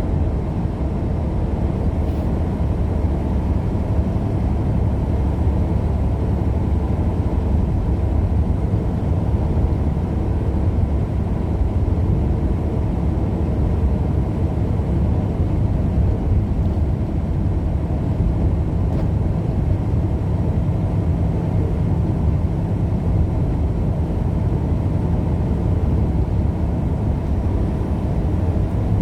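Steady low rumble of a car driving at speed, heard from inside the cabin, with no change in pitch or level.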